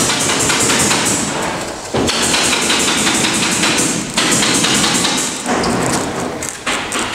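Polyurethane foam being sprayed from a foam gun into gaps in the insulation: a crackling, sputtering hiss in long pulls, with new bursts starting sharply about two and four seconds in.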